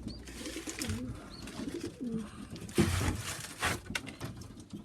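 Pigeons cooing, low wavering coos in the first two seconds, followed by two short knocks or rustles.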